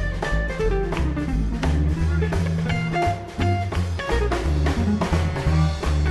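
Swing band playing an instrumental break live: upright bass and drums keep a steady beat under guitar, while a lead line slides down in pitch twice.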